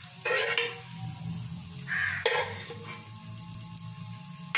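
Cooked beaten egg sizzling in oil in a frying pan while a spatula scrapes it around the pan, with two louder scrapes, one just after the start and one about two seconds in.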